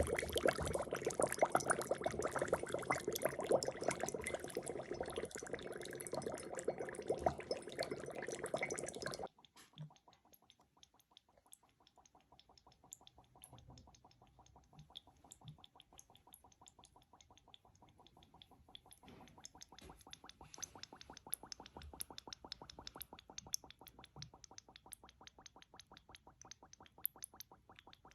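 Dry ice bubbling in water: dense bubbling for about the first nine seconds, then suddenly much quieter, a fast run of small pops that grows a little louder later on.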